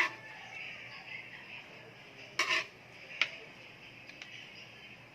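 Cutlery clinking against a plate or dish: a sharp clink at the start, another about two and a half seconds in and a lighter one just after three seconds.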